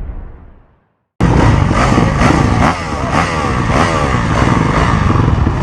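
Motocross bikes revving hard, their engine pitch sweeping up and down again and again, cutting in suddenly about a second in. Before that, a low rumble fades out.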